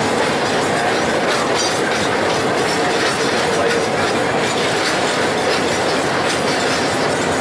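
A train of iron ore cars rolling past: a steady rush of steel wheels on rail, with clicking over the rail joints and some wheel squeal.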